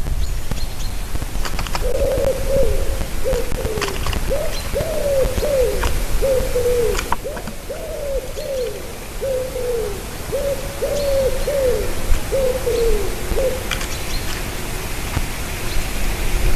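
A bird gives a long run of low, short, arched hooting notes, about two a second, for some ten seconds. Scattered sharp clicks sound over a steady low rumble.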